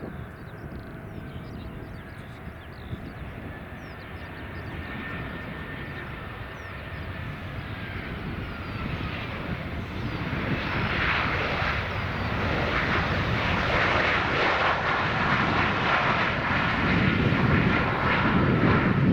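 Boeing 737 jet airliner approaching to land, its engine noise and whine growing steadily louder as it comes closer.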